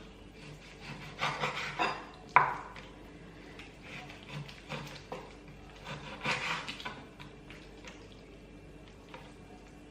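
Kitchen work noises: utensils and objects knocked and scraped on a counter, at irregular intervals. One sharp knock comes about two and a half seconds in, and a longer scraping stretch comes around six seconds in.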